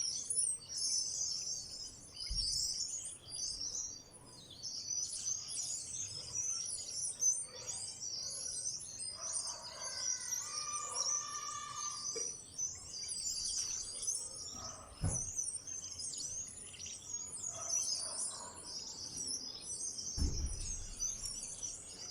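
A flock of small wild birds chirping and chattering continuously, high-pitched and overlapping, with a longer call about halfway through. A few dull low thumps occur, the loudest near the end.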